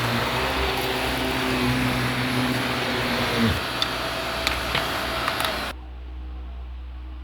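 Vacuum cleaner running on carpet. About halfway through its motor tone drops away, a few sharp clicks follow, and then the sound cuts off abruptly near the end, leaving a low hum.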